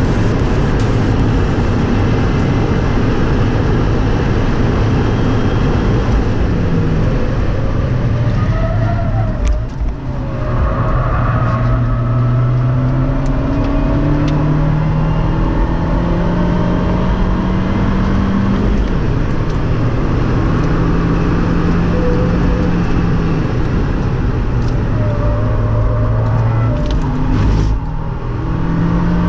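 2017 Fiat 124 Spider Abarth's turbocharged 1.4-litre four-cylinder engine driven hard on a track lap. Its pitch climbs and drops back repeatedly through the gears, with brief dips where the driver lifts, about ten seconds in and again near the end.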